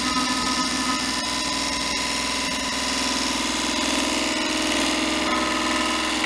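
Wood lathe running while a bowl gouge cuts into a spinning blank of stabilized sticks and resin: a steady motor hum with the scraping, chattering noise of the cut, which gives no clean ribbons because of the resin and wood mix. The cutting noise stops abruptly at the very end.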